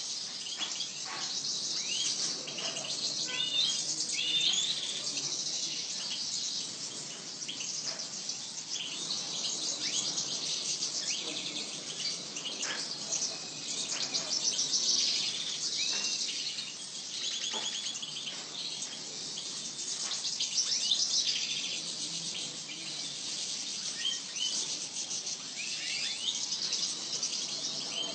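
Many small songbirds chirping and twittering at once, a dense continuous chatter of short, high overlapping calls and whistles.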